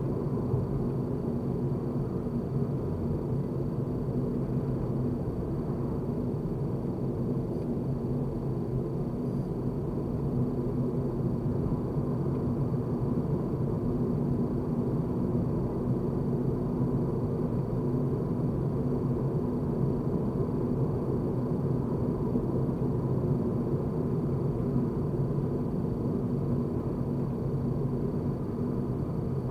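Car driving: steady low road and engine rumble, with a faint steady hum over it.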